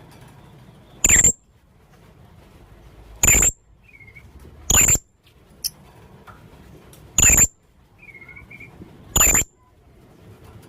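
Young blue-crowned hanging parrot (serindit) calling: five short, shrill, high-pitched calls about every two seconds, with a few faint soft chirps between them.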